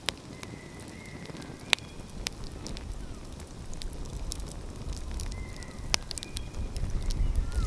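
Wood fire burning, crackling with a few sharp pops, over a low rumble that grows louder in the second half.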